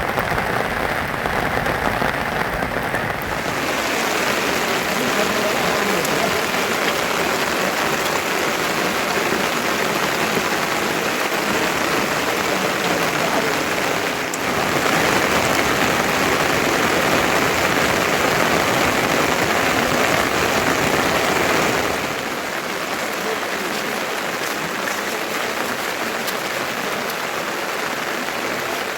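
Rain falling steadily, an even hiss that grows fuller a few seconds in and drops a little in level about two-thirds of the way through.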